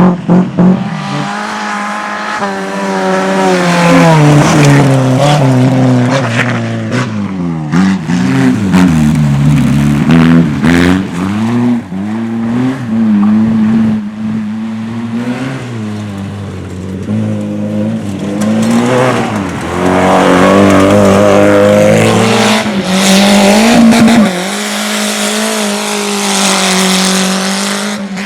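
Rally car engine revving hard, held at high revs for long stretches, with the revs dropping and climbing back twice.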